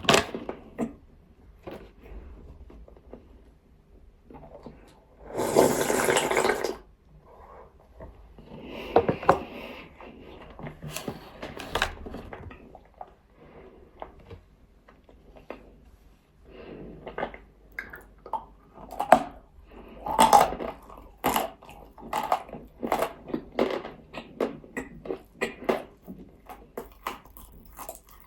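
Close-up crunching and chewing of nzu, a dry edible clay chalk: sharp bites and crumbly crunches come irregularly at first, then quicker and steadier in the second half. A harsh burst of noise lasting about a second comes about five seconds in.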